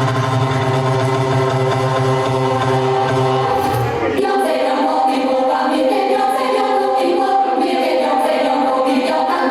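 Techno track played loud in a live DJ mix: sustained chords over a steady bass line, with the bass dropping out about four seconds in while the chords and beat carry on.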